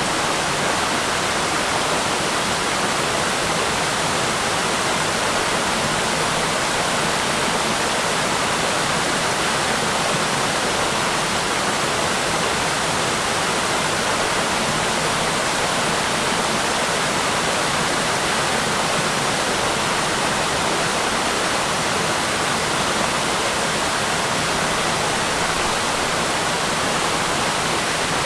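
Waterfall rushing loudly and steadily, heard up close.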